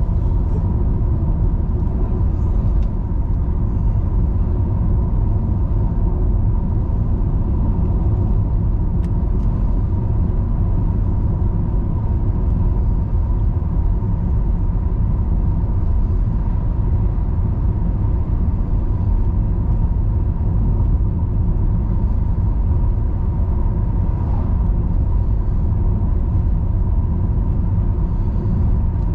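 Steady low rumble of a car on the move: engine and tyre noise, with a thin steady whine over it.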